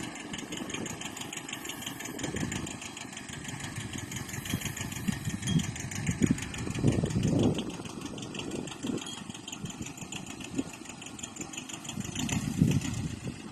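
Tractor engine running steadily at low speed with an even firing rhythm, and uneven low rumbles rising and falling now and then.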